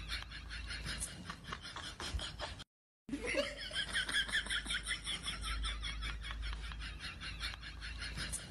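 People laughing in quick, repeated pulses, which cut out for a moment about two and a half seconds in and then carry on.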